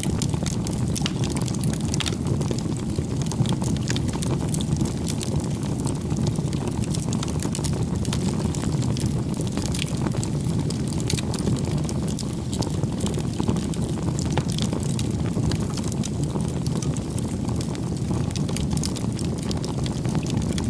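Crackling bonfire: a steady low rush of burning with frequent small sharp pops and snaps throughout.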